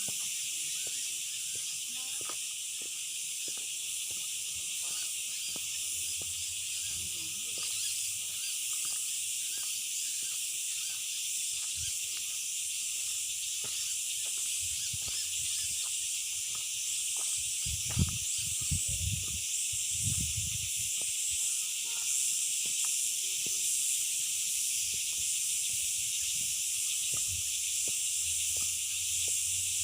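Dense insect chorus, a steady high-pitched shrill hiss with a fine pulsing texture. A few low thuds come about two-thirds of the way in.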